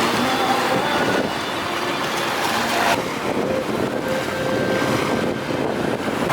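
Strong wind buffeting the microphone over waves washing in rough sea, with a faint steady hum underneath.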